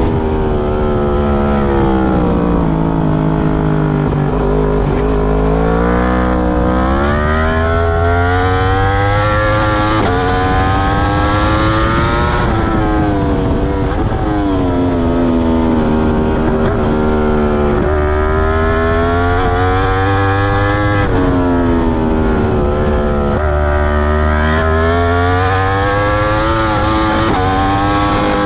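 2021 Yamaha R1's crossplane inline-four, heard from on the bike through an Akrapovic full titanium exhaust with its dB killer fitted, at full track pace. The revs fall away at the start, then climb through the gears with short breaks at each upshift, and fall and climb again twice more under braking and acceleration.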